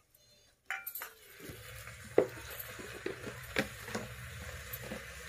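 Chopped tomatoes tipped into an aluminium pressure cooker of frying rice and vegetables, then a steady sizzle of the frying with a few sharp metal clinks against the pot, the loudest about two seconds in. The first moment is near silent.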